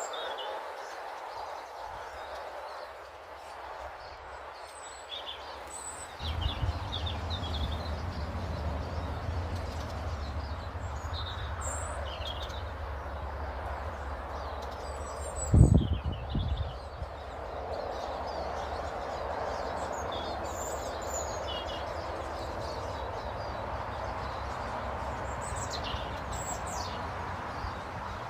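Small garden birds chirping in short, scattered calls over a steady outdoor background hum. A low, steady rumble sets in about six seconds in, and a single loud knock a little past the middle is the loudest sound.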